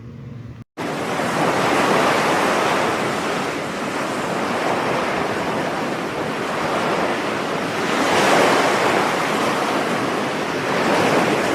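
A steady rushing noise, like surf, that starts abruptly about a second in and swells gently a few times.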